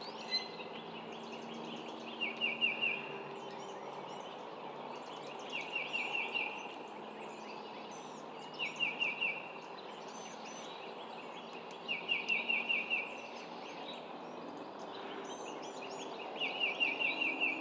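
A songbird repeating a short, fast trilled phrase about every three seconds, five times, over a faint low steady hum.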